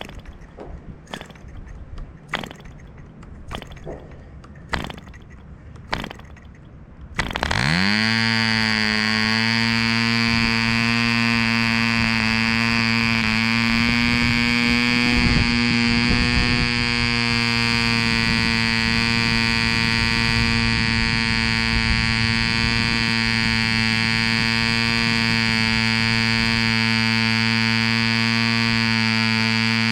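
Mills 0.75 cc model diesel engine being started: a series of sharp clicks about a second apart as the propeller is flicked over, then it catches about seven seconds in, rises quickly in pitch and runs steadily at a high-pitched buzz swinging an 8x4 propeller.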